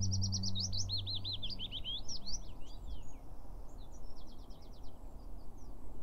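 A songbird singing a quick run of swooping, looping whistled notes, then, a little past the middle, a short fast trill of about ten notes a second. A low ringing tone fades away in the first second or so.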